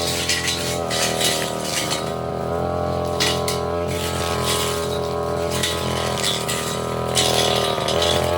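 Petrol brush cutter engine running steadily at cutting speed, with scattered metallic clinks and ticks as its spinning metal blade strikes brush and stems.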